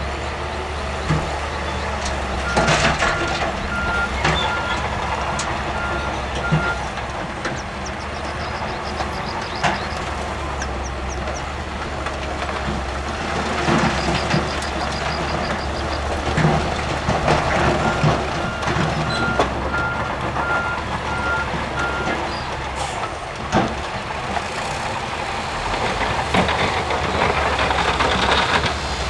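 Heavy earthmoving machinery with diesel engines running steadily. A reversing alarm beeps about twice a second in two runs of about four seconds each, one starting a few seconds in and one after about eighteen seconds. Scattered knocks and clanks are heard throughout.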